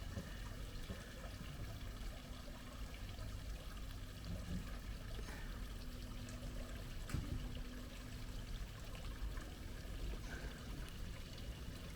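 Harbour water lapping and trickling against the quayside, a steady low wash.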